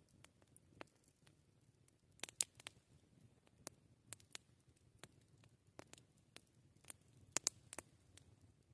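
Campfire crackling: scattered sharp pops and snaps at irregular intervals, with a loud cluster about two seconds in and another near the end, over a faint low background noise.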